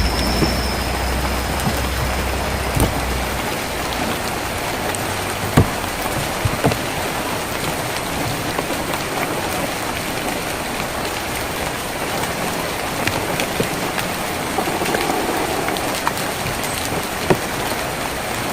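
Steady rain falling on a tin roof, with scattered louder drops striking sharply. A low rumble underneath fades out about three seconds in.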